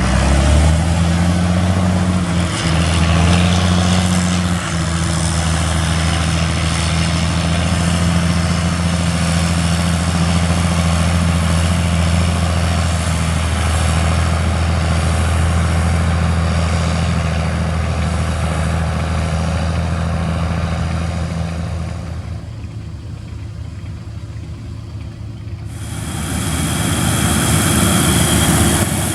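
Engine of corn-harvesting farm machinery running steadily with a deep hum, its pitch shifting slightly in the first few seconds. About three-quarters of the way through it turns quieter and muffled for a few seconds, then comes back louder with a hiss.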